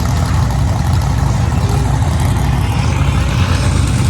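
Mini monster truck engine running loudly and steadily, a low continuous rumble.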